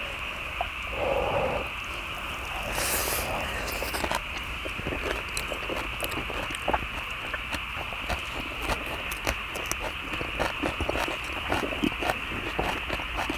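Close-miked mouths chewing leaf-wrapped stir-fried pork and kimchi. There are many small irregular wet clicks and smacks, thickening after the first few seconds, over a steady high hum in the background.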